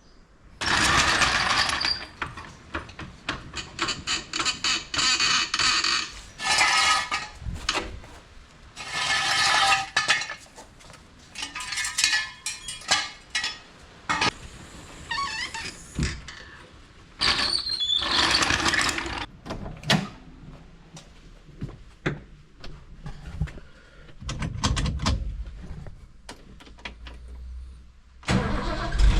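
Irregular bursts of mechanical squeaking and clatter, then a car engine running from near the end.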